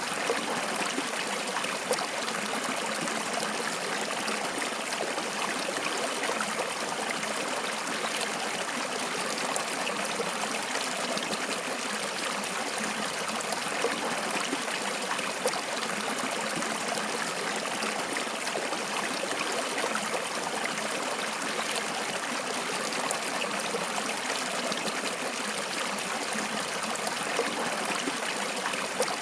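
Water flowing steadily in a stream, an even rushing and trickling with small splashes now and then.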